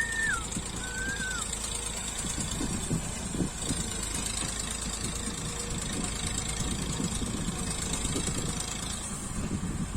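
Massey Ferguson tractor's diesel engine running with a steady low throb, pulling a trolley. Two short whistle-like tones sound at the start and about a second in.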